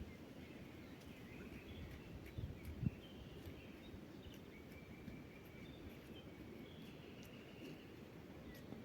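Faint birds chirping over a low rumbling outdoor background, with a couple of soft low thuds about two and a half to three seconds in.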